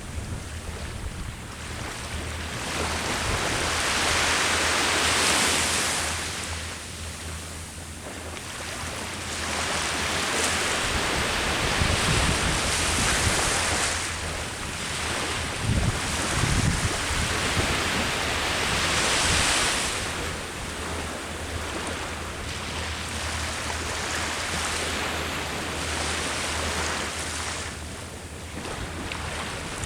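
Sea waves breaking on the shore, a broad rushing wash that swells and ebbs every several seconds, with wind rumbling on the microphone.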